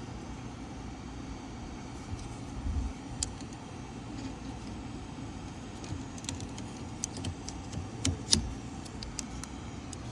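Wiper blade being fitted onto the windshield wiper arm: scattered small plastic-and-metal clicks and taps from the clip and arm, growing busier in the second half, with two sharper clicks close together near the end. A steady low rumble of background noise runs underneath.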